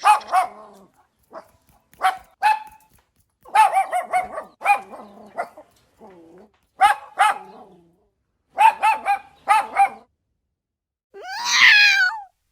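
A dog barking in short, high-pitched barks, singly and in quick runs of two to four. Near the end comes one longer call of about a second, its pitch sliding up and then down.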